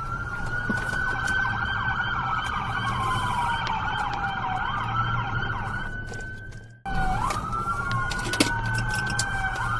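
Police siren wailing: a quick rise in pitch, then a slow fall, repeating every few seconds. It cuts out for a moment about seven seconds in and starts again.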